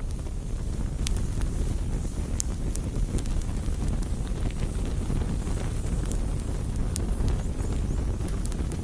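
Wood campfire burning: a steady low rush under sparse, sharp crackles and pops from the burning wood.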